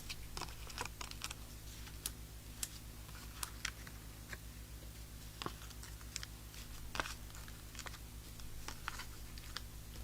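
Scattered light clicks and soft rustles of paper crafting by hand: backing peeled off foam adhesive dimensionals and cardstock pieces handled and pressed down, over a low steady hum.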